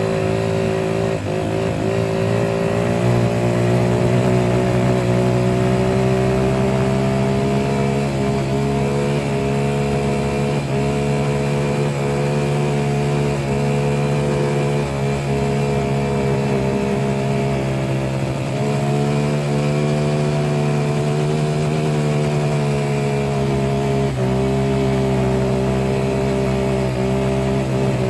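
An engine running steadily at an even, nearly constant pitch that wavers slightly now and then.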